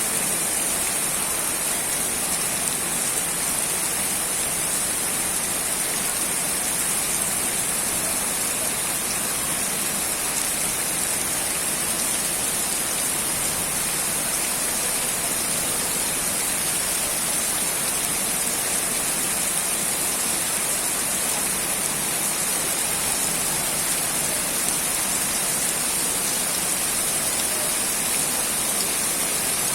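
Rain falling steadily: an even, unbroken hiss, strongest in the high range.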